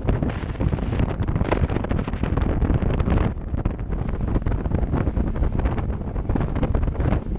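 Heavy wind buffeting the microphone on a boat underway across choppy water, a dense loud rumble full of irregular crackles and knocks.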